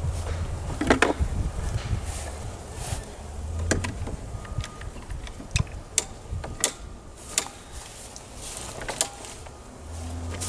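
Workshop handling noise: scattered sharp clicks and knocks of wood and tools being moved and fitted, with a steady low hum at the start, again briefly a little before 4 s, and again near the end.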